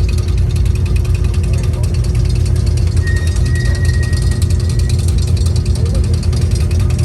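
Car engine running steadily with a deep rumble and fast, even firing pulses, as a vehicle idles or rolls by at low speed.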